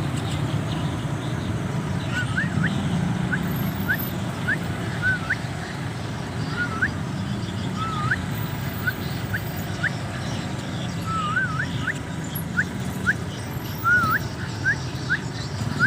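Young Javan myna chick giving short, thin rising cheeps again and again at an uneven pace, begging for food, over a steady low rumble.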